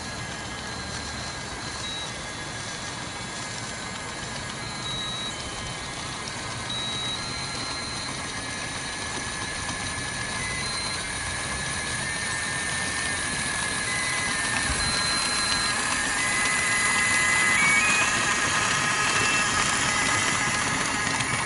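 A model train running, its steady hiss growing louder as it comes closer, with a simple electronic tune of single high notes playing over it.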